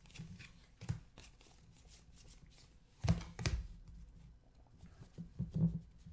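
Hands handling 2016-17 Panini Excalibur basketball trading cards: cards sliding and being flipped through, with short clicks and rustles and a louder rustle about three seconds in and again near the end.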